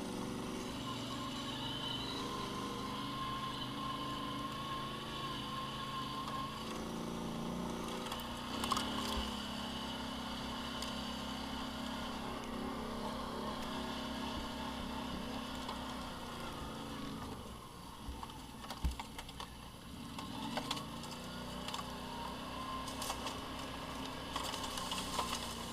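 Off-road vehicle engine running at a steady speed, easing off for a couple of seconds about two-thirds of the way through and then picking up again, with a few short knocks.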